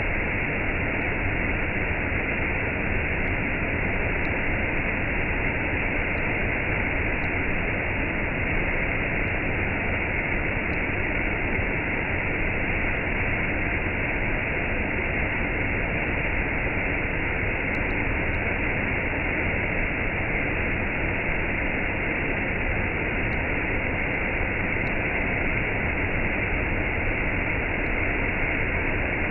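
Waterfall with a cascade rushing in a steady, unbroken roar of falling water, sounding dull with the high end cut off.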